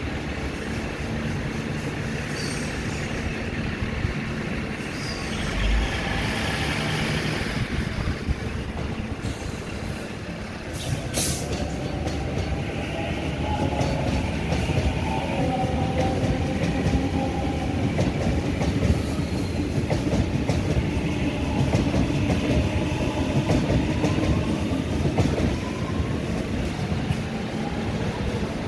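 Electric trains passing close by: steady wheel rumble and clickety-clack over the rails, with faint whining tones from the wheels and motors joining in from about halfway through.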